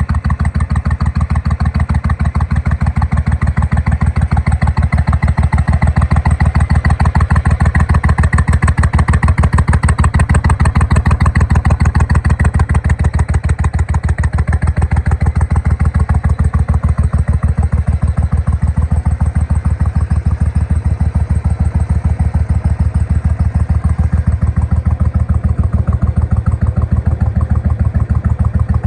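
A 2000 Suzuki Intruder 1500's V-twin engine idling steadily, with an even pulsing beat.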